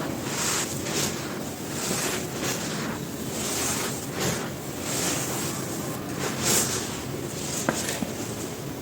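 Dry, dusty, crispy cylinders of a chalky material being crumbled and crushed by hand: a run of soft crunches, with a sharper crack about three-quarters of the way through.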